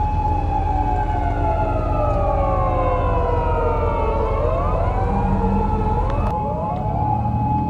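Police car siren sounding a slow wail whose pitch falls over several seconds, then climbs and falls again, beside a steady held tone, over the low rumble of car engines.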